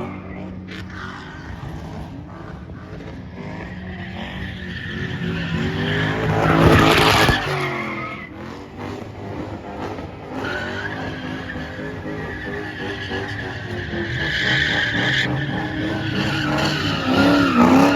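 Car engines revving with tyres skidding and screeching, loudest about seven seconds in and again near the end.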